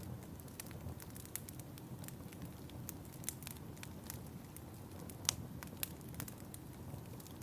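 Wood fire in a fireplace crackling, with irregular sharp pops and snaps over a low, steady rumble of the flames; the loudest pop comes about five seconds in.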